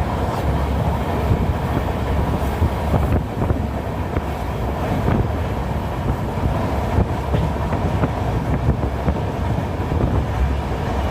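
Passenger train running along the track: a steady, deep rumble with frequent short clicks and rattles.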